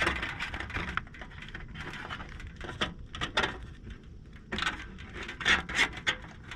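Plexiglass panels being handled and fitted back into a powder-coated bird feeder: a run of small clicks, taps and scrapes, busiest in the last two seconds.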